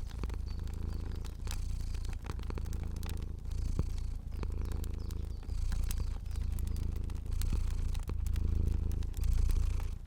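Domestic cat purring, a low rumble that swells and eases about once a second with each breath. It is joined by the small scattered pops of a crackling fire.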